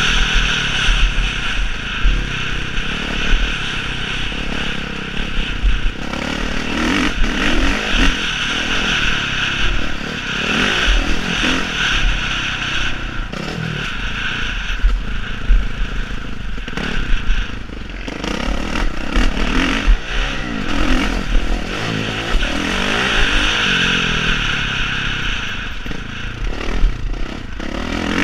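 Motocross motorcycle engines running on the track, their sound swelling and fading as bikes accelerate and pass, over a rough, clattering rumble.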